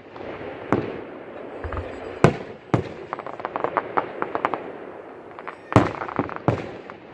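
Fireworks display: aerial shells bursting with about five sharp bangs, and a rapid run of crackling pops from about three to four and a half seconds in.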